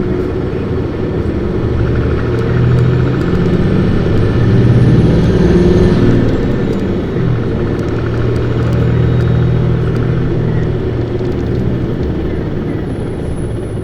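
Isuzu Erga city bus's straight-six diesel engine revving hard under acceleration, its pitch climbing for a few seconds. The pitch drops at a gear change about seven seconds in, then the engine pulls steadily again before easing off near the end.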